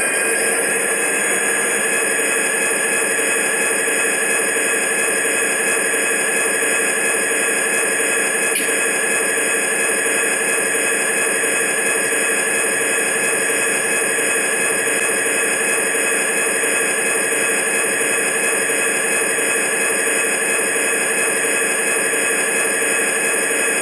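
Model railroad locomotive running at a steady speed, a steady hum and whine made of many fixed tones that holds without change.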